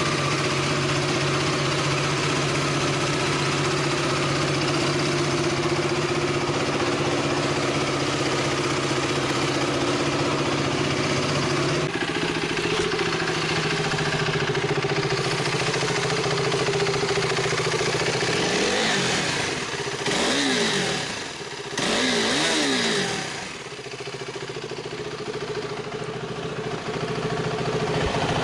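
KTM 390 Duke's single-cylinder engine idling cold, its idle note changing about twelve seconds in. Later it takes three quick throttle blips, the revs rising and falling each time, then settles back to idle.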